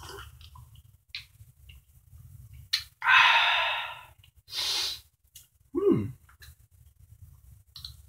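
A man slurping a sip of coffee from a mug, loudly about three seconds in, then a breathy exhale and a short vocal sound that falls in pitch.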